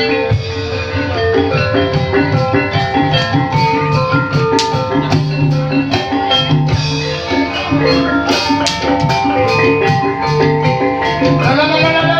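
Live ebeg accompaniment music: a Javanese gamelan-style ensemble of struck tuned bars and gongs playing interlocking steady notes over drums. Near the end a pitch slides upward over the ensemble.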